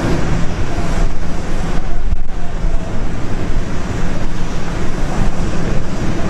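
Steady, loud jet engine noise from an airliner climbing away after takeoff.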